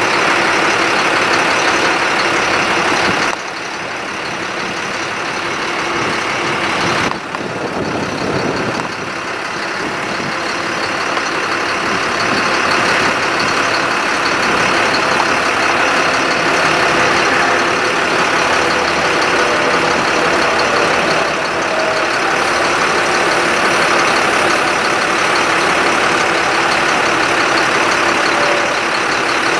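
Ford F-750 truck engine running, a steady mechanical noise that drops in level a few seconds in, then climbs back gradually over the next several seconds.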